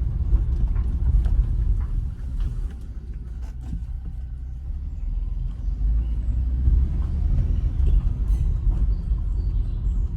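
Low road and engine rumble heard from inside a moving vehicle, dipping quieter for a few seconds partway through before picking up again.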